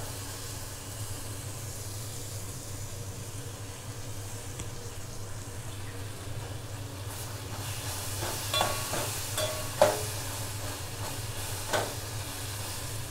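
Onion, brinjal, green chilli and fresh tomato frying in oil in a steel pot, a steady sizzle over a low steady hum. In the second half a metal spoon stirs, clinking and scraping against the pot several times.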